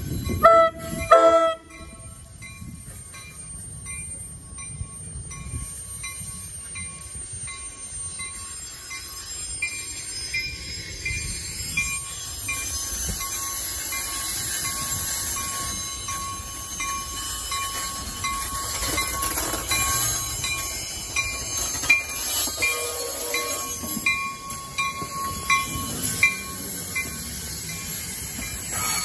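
NJ Transit commuter train's horn sounds two short blasts. The train then rolls past on curved track, with steady wheel-on-rail noise, a thin high squeal and faint regular ticking.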